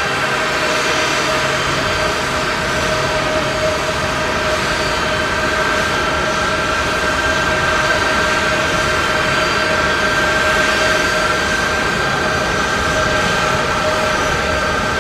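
Jet aircraft's turbofan engines running steadily: a loud rushing noise with a held whine on top.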